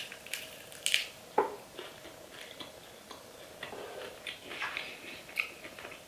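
Biting and chewing a crispy fried chicken wing: a few sharp crunches of the skin in the first second and a half, then quieter, scattered chewing crunches.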